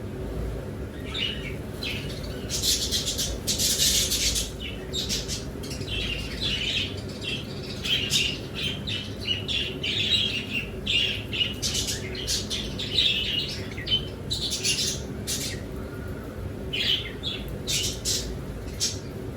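A group of caged pet birds chirping and squawking in many short, busy bursts, with some wing flapping, over a steady low hum.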